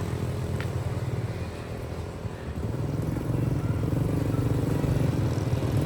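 A small engine running steadily, a low hum that drops off a little about two seconds in and then builds again.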